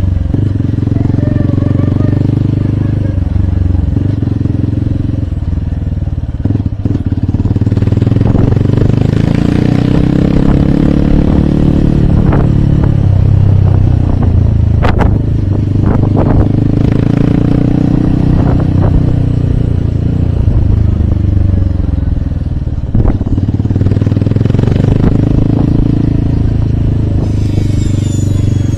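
Hero Hunk motorcycle's single-cylinder four-stroke engine running under way, its pitch climbing as it speeds up, dropping as it eases off, then climbing again. A few sharp clicks sound along the way.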